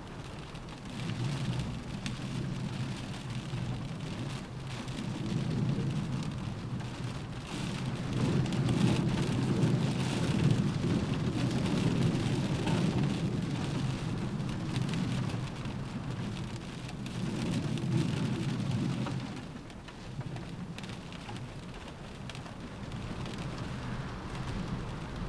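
Steady rain pattering on a window, under a low rumble of storm wind or distant thunder that swells to its loudest around the middle and dies down near the end.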